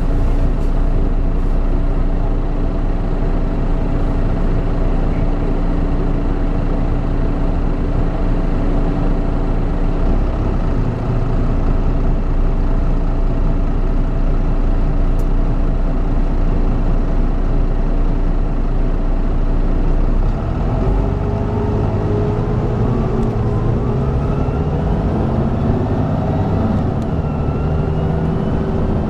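Volvo B9B inline-six diesel engine of a Volvo B9TL bus running at steady revs, then about two-thirds of the way through its pitch starts climbing steadily as the engine pulls the bus up to speed.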